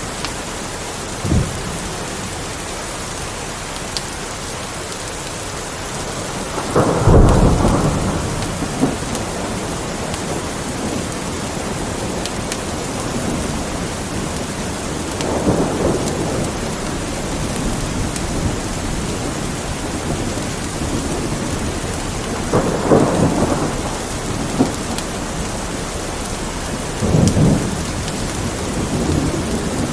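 Steady rain with rolling rumbles of thunder. The strongest rumble comes about seven seconds in, and softer ones follow several times later.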